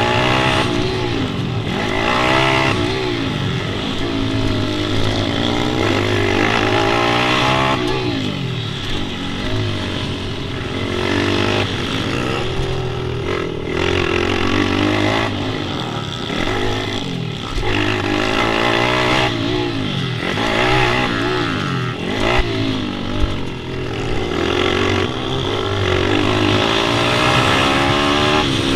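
Small single-cylinder pit bike engines revving, their pitch climbing and dropping back over and over as the throttle is opened and closed.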